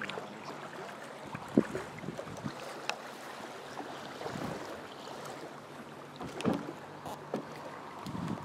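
Kawasaki Z1000 motorcycle engine running at a steady low hum under the rush of wind over the mounted camera's microphone, with a few light ticks and knocks.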